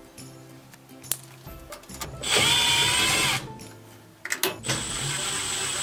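Electric screwdriver running in two short bursts, each a steady motor whine, backing out two Torx screws from the washer's rear panel. A few light clicks come just before the second run.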